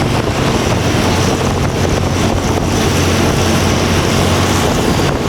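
Diesel locomotive engine running steadily with a low drone, with wind buffeting the microphone.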